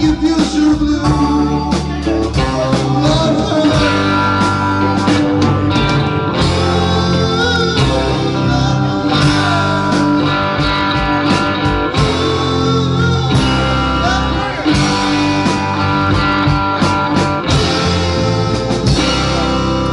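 A band playing an instrumental passage: a bending lead guitar line over bass and drums.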